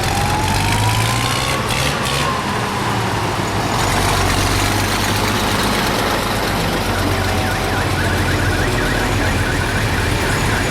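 Engines of veteran vehicles running steadily, with a wailing tone that rises and then falls in the first two seconds and a rapid warbling tone near the end.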